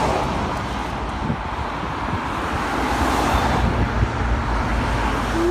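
Road traffic passing close by: a steady rumble of car and truck tyres and engines, swelling as a vehicle goes past about three seconds in.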